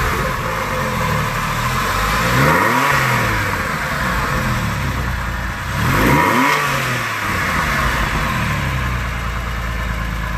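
2003 Porsche 911 Carrera (996) water-cooled 3.6-litre flat-six heard at its stock tailpipes, idling with two quick blips of the throttle, about two and a half seconds in and again about six seconds in. Each time the revs rise and drop back to idle.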